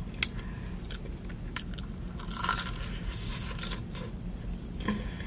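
Mouth sounds of biting and chewing a Korean cheese corn dog coated in potato cubes: soft crunching, with scattered short clicks and a denser stretch of crunching in the middle.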